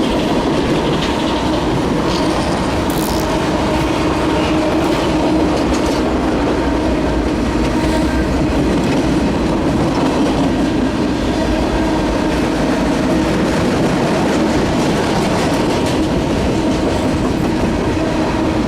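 Norfolk Southern intermodal freight train rolling past: a steady, loud rumble of steel wheels on rail, with a brief high wheel squeal about three seconds in.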